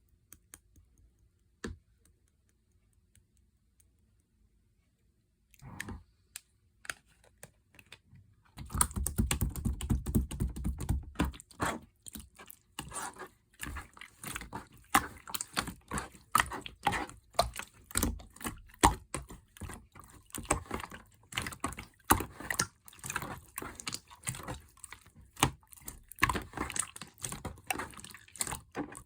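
Slime being kneaded and mixed by hand, making dense, irregular sticky clicks and pops. A few scattered clicks come first, and the squishing starts in earnest about eight seconds in.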